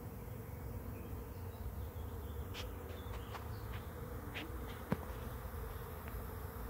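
Honeybee swarm buzzing steadily, with a few faint ticks and one sharper click about five seconds in.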